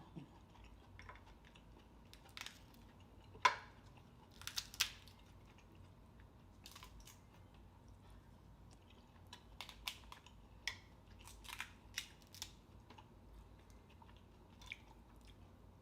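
Close-up eating sounds of seafood: sporadic chewing, crunching and biting, heard as scattered sharp clicks and crackles with a few louder ones about three and a half to five seconds in.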